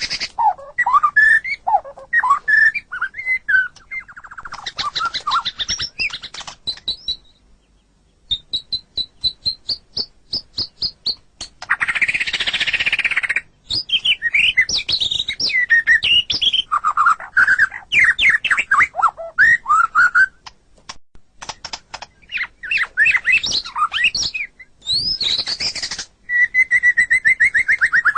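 White-rumped shama (murai batu) singing a varied, changing song of clear whistled slurs and rapid runs of short ticking notes. Around the middle comes a brief harsh, scratchy phrase, and near the end a long falling whistle.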